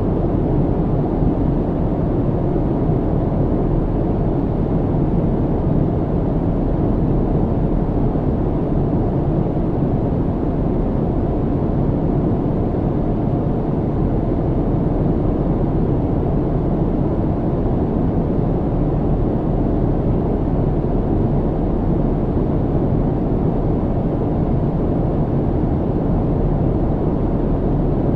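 Steady airplane cabin noise: an even, unbroken rumble and hiss of engines and airflow, heaviest in the low end.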